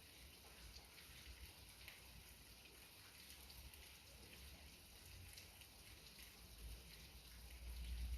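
Light rain falling, a faint steady patter with scattered drops. A low rumble swells near the end.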